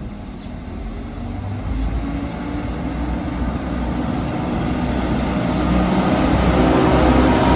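A train approaching, its running noise with a low engine hum growing steadily louder, and a few engine tones coming up near the end.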